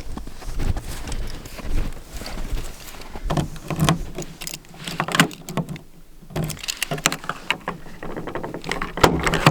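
A run of irregular clunks, knocks and rustles from someone moving about and handling things in and around a parked pickup truck.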